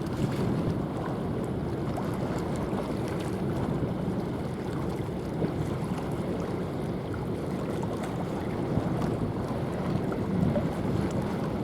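Steady rush of wind buffeting the microphone, mixed with the wash of sea water, with no distinct tones or knocks.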